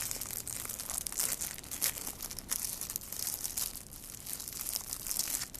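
Crinkly plastic rustling and handling noise, with a few sharp clicks, as a plastic model and its display stand are worked together.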